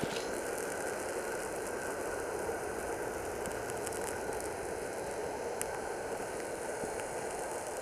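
Steady, even rushing rumble of a passenger train receding into the distance, with one small click at the very start.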